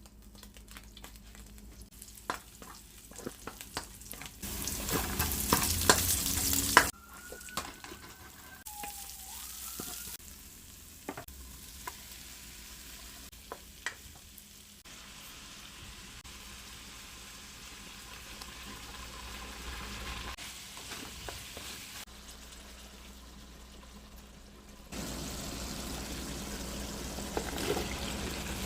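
Ginisang pork with sayote and bok choy stir-frying in a pan: sizzling, with the clicks and scrapes of a spatula stirring. The sound jumps between several short clips, and the loudest burst of sizzling comes about five seconds in.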